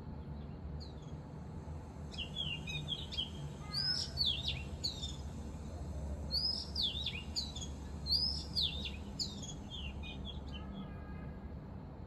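Recorded bird song played back through a speaker: several phrases of quick, sweeping whistled notes, starting about two seconds in and stopping shortly before the end, over a low steady hum.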